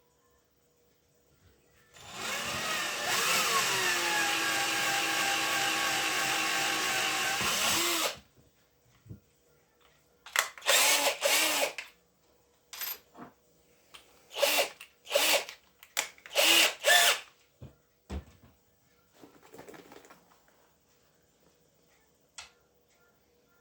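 A small electric power tool spins up, its pitch rising, then runs steadily for about six seconds and stops. A few seconds later comes a run of about eight short, loud, hissing bursts, each under a second.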